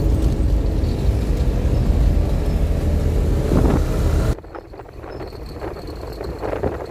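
Vehicle engine and travel rumble with a steady hum. It cuts off suddenly about four seconds in, leaving a quieter background with a few faint knocks.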